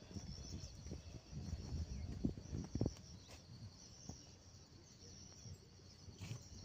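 Steady high-pitched chirring of insects such as crickets, over irregular low rumbles on the microphone.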